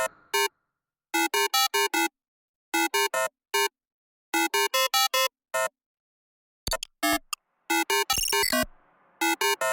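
Electronic music: clusters of short, clipped synthesizer notes, about four to five a second, broken up by abrupt silences in a stuttering, glitchy pattern.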